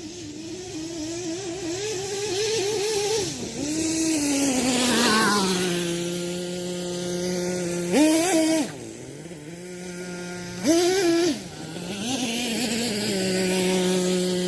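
Small nitro engine of a Kyosho Mad Force RC monster truck. Its pitch wavers up and down under throttle for the first few seconds, then falls to a steady idle about six seconds in. Two short, sharp throttle blips follow, then a smaller rise before it settles back to idle.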